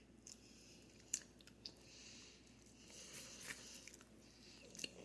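Faint chewing and mouth smacks of someone eating the soft meat from a beef soup bone: a few soft, scattered clicks.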